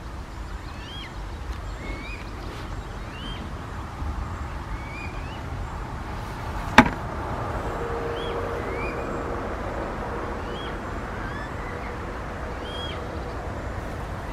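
A small bird calling over and over, short chirps about once a second, over a steady low outdoor rumble. One sharp click about seven seconds in, and a faint steady hum in the second half.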